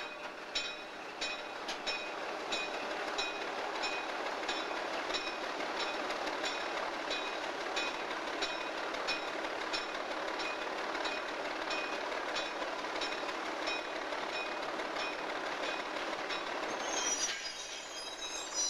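Diesel locomotive and coal hopper cars rolling on rail, with a regular ringing metallic clang about one and a half times a second. High-pitched wheel squeal comes in near the end.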